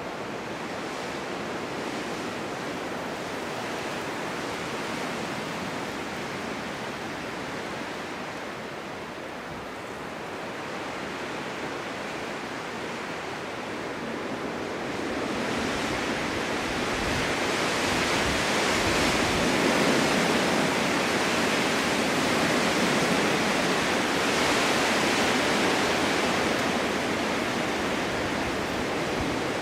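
Winter wind blowing steadily, rising into a stronger, louder gust about halfway through that holds to the end.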